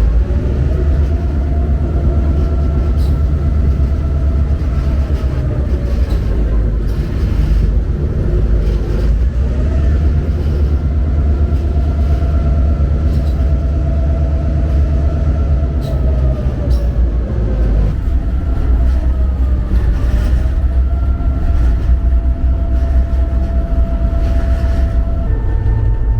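Diesel locomotive heard from inside its cab: the GP38-2's EMD 16-645 V16 engine running under way with a heavy, steady low rumble. Over it a whine rises and falls in pitch in slow swells every several seconds, with scattered clicks.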